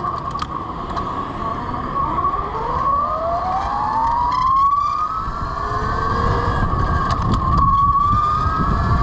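Electric motorcycle's motor whine rising in pitch as it accelerates, breaking off briefly twice and climbing again, consistent with shifting up through its four-speed manual gearbox. A steady higher tone runs underneath, with wind rumble growing toward the end.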